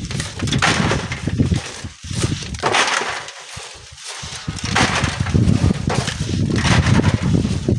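Strong wind buffeting the microphone in gusts, a heavy low rumble that swells and fades, easing off for about two seconds in the middle before picking up again.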